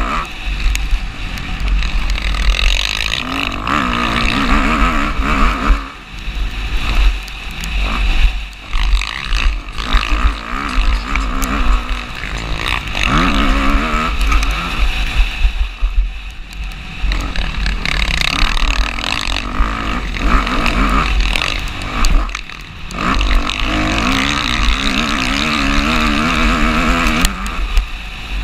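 Motocross bike engine revving hard and easing off again and again, the pitch climbing and falling with the throttle, over a heavy low rumble. It drops off briefly three times.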